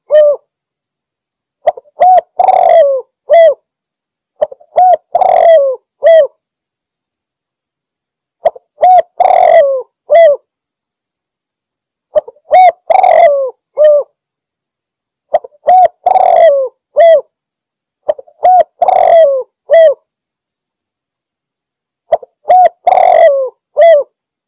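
Spotted dove (tekukur) cooing loudly: a short phrase of several coos, repeated seven times about every three to four seconds with silence between.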